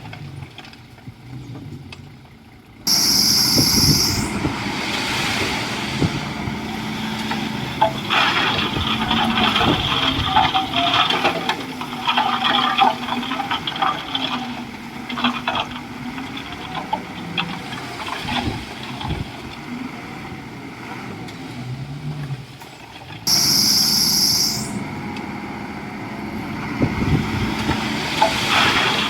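Komatsu D41E bulldozer's diesel engine working under load, its pitch rising and falling, with clanking and rattling from the machine. It gets suddenly louder about three seconds in, and a short high-pitched whine comes twice, about three seconds in and again near the end.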